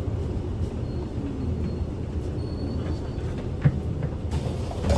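Kyoto City bus in motion, heard from inside the cabin: a steady low engine and road rumble, with a single knock about three and a half seconds in.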